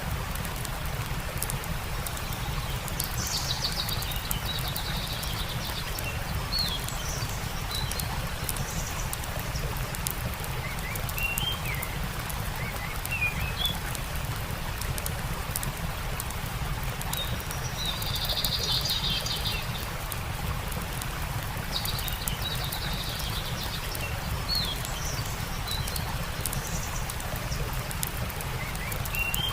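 Small birds chirping, with three short buzzy trills, over the steady rush of a stream and the scattered sharp crackle of a campfire.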